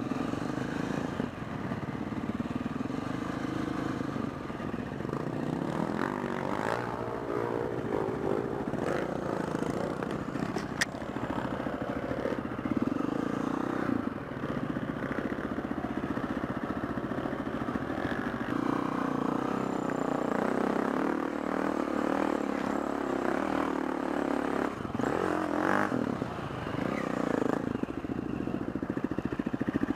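Four-stroke single-cylinder enduro dirt bike engine being ridden, its revs rising and falling throughout, with clattering from the bike over the terrain.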